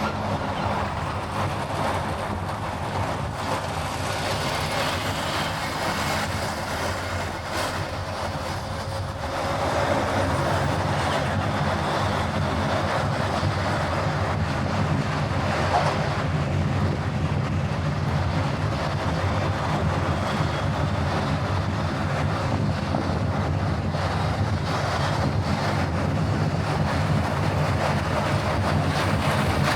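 Car driving on the road: steady engine hum with tyre and road noise, growing louder about a third of the way through as the car picks up speed.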